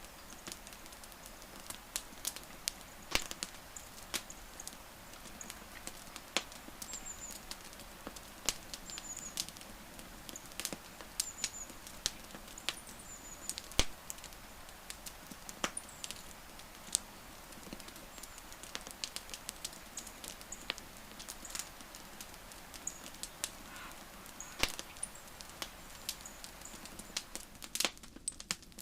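Wood campfire crackling: irregular sharp pops and snaps over a soft steady hiss, with short high chirps now and then.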